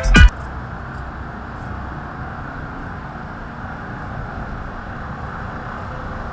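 A music track cuts off abruptly just after the start. Then a steady, even outdoor background noise continues, with no distinct events.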